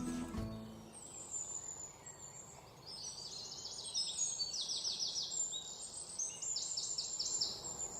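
Small birds singing: from about two and a half seconds in, repeated quick trills of short high chirps over a faint outdoor hiss.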